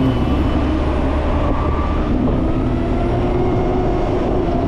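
Steady wind and road noise while riding a LiveWire electric motorcycle through traffic, a low rumble under a few faint steady whining tones; the electric bike itself makes almost no engine sound.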